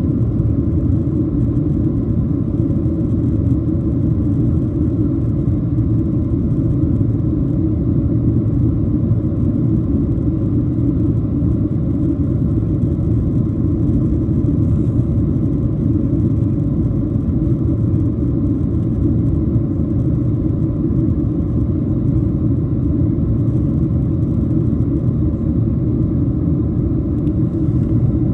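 Steady low rumble of engine and airflow noise inside the cabin of a Boeing 737-700 in flight.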